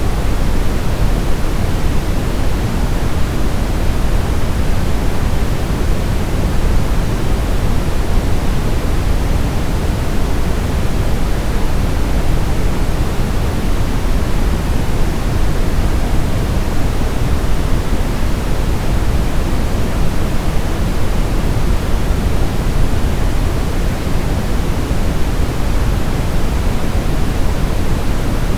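Continuous white-noise sleep track: an even, unchanging hiss, heavier in the low end than the top, with no breaks or changes.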